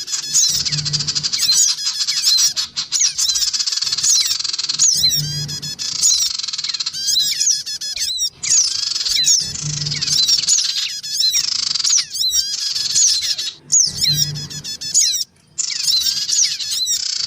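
Sogon birds chattering noisily, a dense run of fast high chirps and twitters, on a looped lure recording whose segments start and stop abruptly. A short low hum recurs about every four and a half seconds.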